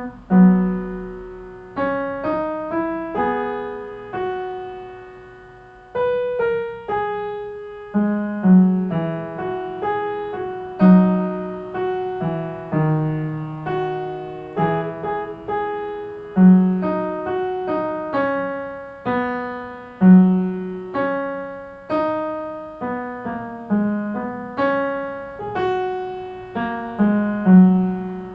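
Piano playing a tune at a moderate pace, its notes and chords struck sharply and left to die away.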